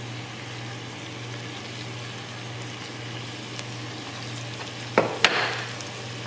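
Chicken tenders frying in oil in a stock pot, a steady sizzle, with two sharp knocks about five seconds in.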